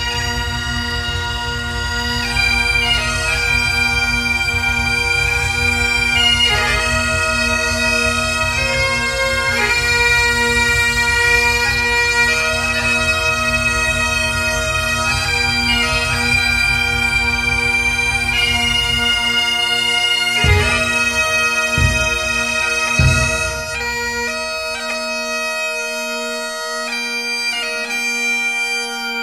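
Bagpipes playing a slow tune over a steady drone, with three sharp thumps about two-thirds of the way through.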